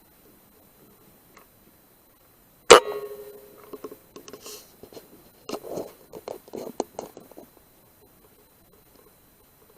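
A single sharp rifle shot about three seconds in, with a ringing tail, followed by a few seconds of scuffling and clicks that die away.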